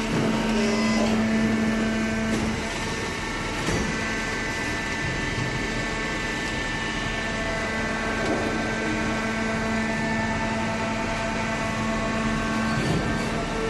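Hydraulic cardboard baler running: its electric motor and pump give a steady hum with several constant tones, broken by a single sharp knock a little under 4 seconds in.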